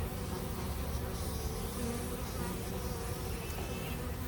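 Honeybees buzzing around an open hive: a steady, continuous hum of many bees.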